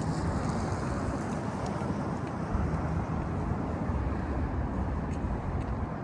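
Steady rumble of city street traffic, heaviest in the low end, with a few faint clicks over it.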